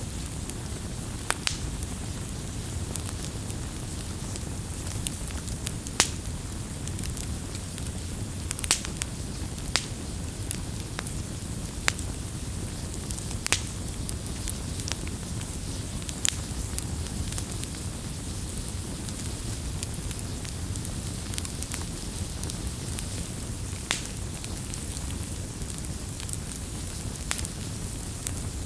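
Wood campfire burning with a steady low rumble and hiss, and sharp crackles and pops from the burning wood every second or two, the loudest about six seconds in.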